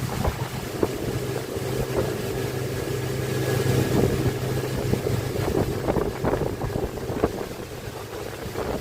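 An engine running steadily with a low hum, which fades out about five and a half seconds in, with scattered knocks and crackles and some wind on the microphone.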